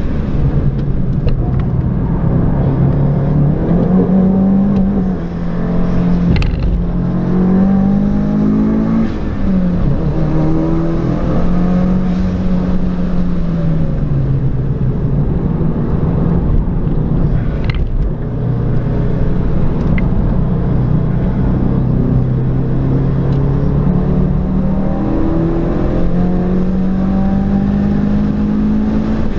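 Subaru WRX's turbocharged 2.0-litre flat-four, fitted with a titanium exhaust, heard from inside the cabin while being driven hard on track. The engine note climbs and falls several times as the car goes through the gears and corners.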